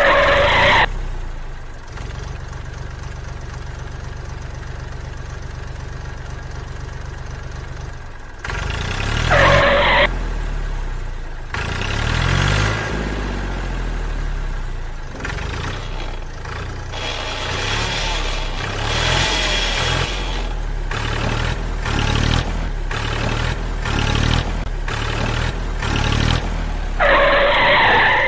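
Engine-like running of a toy tractor towing a trolley on a chain: a steady hum for about the first eight seconds, then rising and falling in pitch with rapid clattering. A short, loud, higher burst comes at the start, again about ten seconds in, and near the end.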